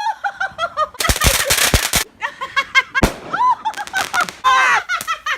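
Shrieking, high-pitched laughter in quick repeated bursts. About a second in comes a rapid run of firework bangs and crackle, and a single bang follows near three seconds.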